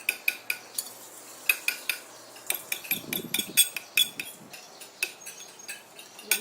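Irregular sharp clinks of a small metal utensil tapping against a dish or bowl, several a second, with a short duller sound about halfway through.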